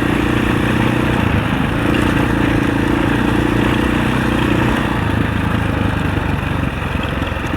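Husaberg 650 single-cylinder four-stroke enduro dirt bike running while being ridden at steady throttle, easing off a little about five seconds in.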